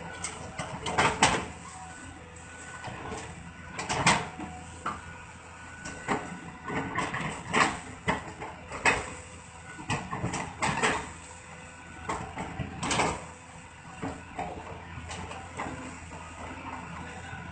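A heavy engine running steadily under a string of irregular sharp cracks and knocks, the loudest about a second in, about four seconds in and about thirteen seconds in.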